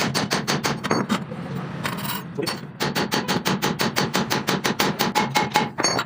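Rapid, evenly spaced hammer taps on metal, about nine or ten a second, in two runs with a short pause a little over two seconds in.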